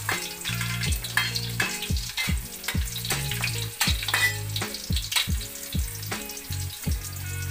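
Garlic sizzling in hot oil in a wok, with a metal spatula stirring and scraping against the pan. Background music with a steady bass beat plays under it.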